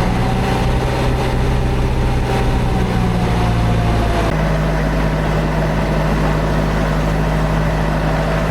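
Boat engine running steadily, its note changing abruptly about four seconds in.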